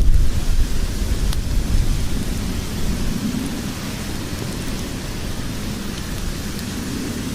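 Wood fire of burning logs in a fireplace: a steady low rumble of flames with a few sharp crackles and pops. The rumble eases off over the first few seconds.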